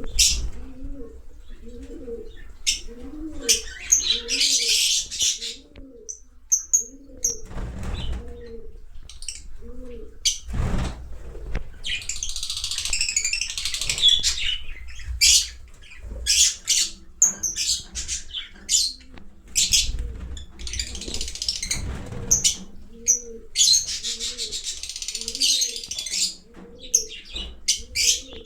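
Fischer's lovebirds chattering in bursts of rapid, high, harsh chirps. Behind them, a low call rises and falls in pitch about twice a second, and a few soft thuds are heard.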